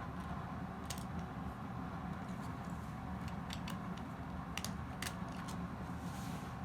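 A few light, sharp clicks of small plastic toy-robot parts being handled during disassembly, over a steady low hum.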